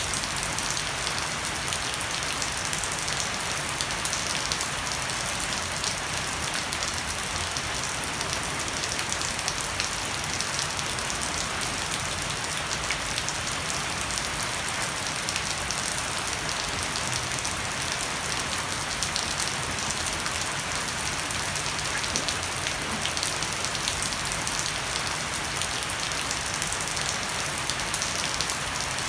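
Heavy rain falling steadily on a wet wooden deck and leafy shrubs, with water dripping from a thatched roof edge: a constant hiss laced with many small drop ticks.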